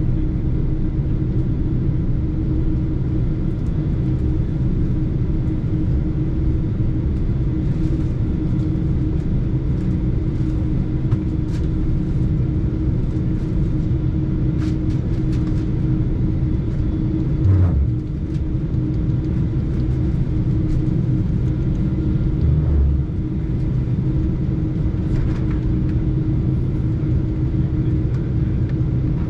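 Boeing 747-8 cabin rumble while taxiing: a steady low drone from the engines at low thrust and the rolling gear, with a constant hum. Two brief low thumps come past the middle as the wheels roll over bumps.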